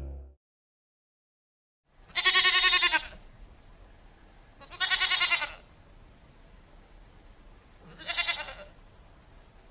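A goat bleating three times, a couple of seconds apart, each a wavering, quavering call, the last one shorter than the first two.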